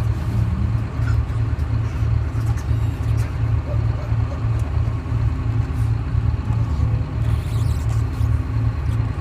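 Detroit Diesel 6V71 two-stroke diesel of a GMC New Look transit bus running steadily, a low even throb of about three pulses a second.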